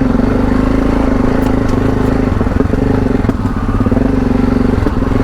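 Parallel-twin adventure motorcycle engine running at a steady pitch while being ridden off-road, with scattered knocks and clatter from the bike over rough ground.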